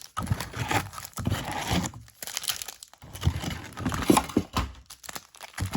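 Plastic wrapping and cardboard of a trading-card box crinkling and tearing in irregular bursts as the box is opened by hand.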